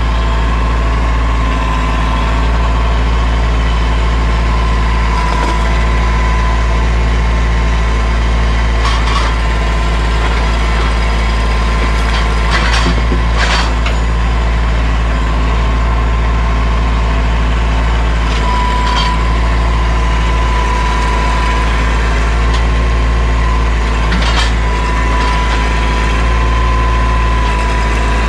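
Mahindra 1626 sub-compact tractor's diesel engine running steadily. A thin high whine comes and goes, and there are a few sharp knocks.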